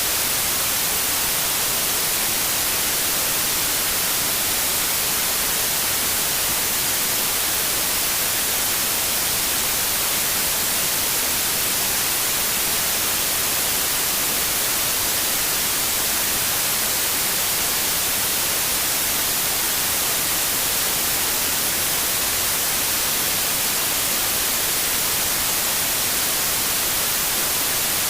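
Steady white noise: an even, unchanging hiss, brightest in the treble, with no breaks or events.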